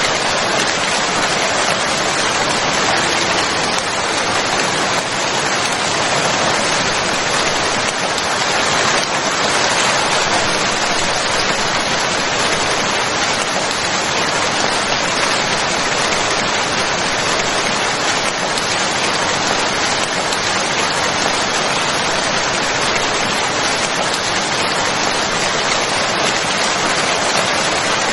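Steady, even rain falling, a dense hiss of many drops with no single drop standing out.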